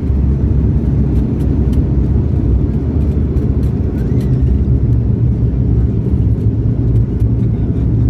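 Airliner cabin noise during the landing: a loud, steady low rumble of engines, airflow and wheels on the runway.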